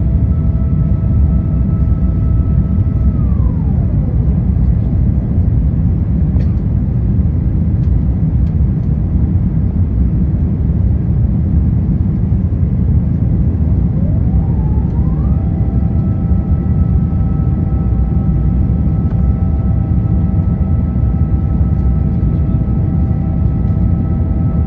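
Loud, steady rumble of an Airbus A350-1000 jet airliner heard from inside the cabin. A whining tone rises, holds and falls away near the start, then rises again about two-thirds of the way through and holds.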